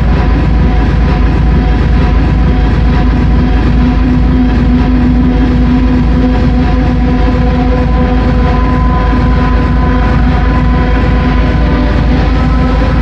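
Sound system playing a long, steady electronic tone held on one pitch over heavy bass, unchanging for the whole stretch.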